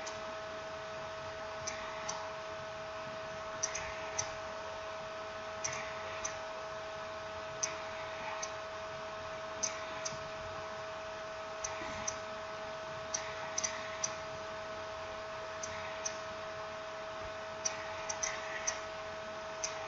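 Scattered small clicks and taps, singly or in quick pairs every second or two, of small parts and tools being handled while a smartphone is put back together, over a steady hum.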